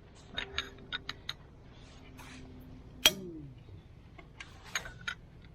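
Metal hand tools clicking and clinking against engine parts in a few irregular taps, with one sharp, louder clink about three seconds in.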